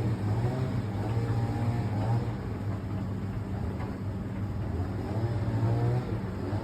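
Fisher & Paykel ED56NZ clothes dryer running, a steady low motor hum with the drum tumbling the load.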